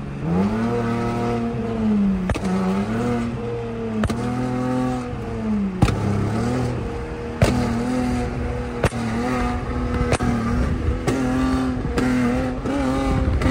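A car's engine and exhaust under way on the highway, the revs swelling up and dropping back again and again, with several sharp clicks scattered through.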